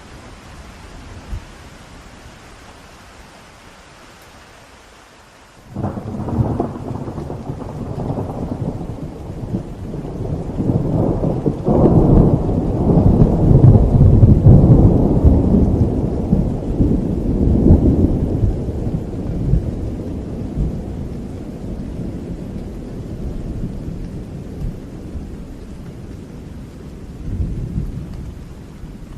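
Steady rain, then about six seconds in a thunderclap breaks suddenly into a long, deep rolling rumble. The rumble grows to its loudest about halfway through and slowly dies away, with a smaller swell near the end.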